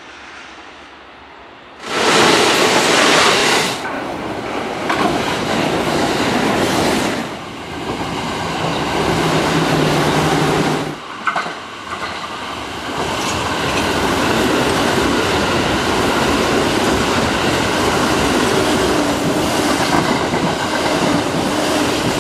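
Kintetsu electric trains passing close at speed, a loud rush of wheels on rails. It starts suddenly about two seconds in, dips briefly twice as one pass gives way to the next, and has a short low steady hum in the middle.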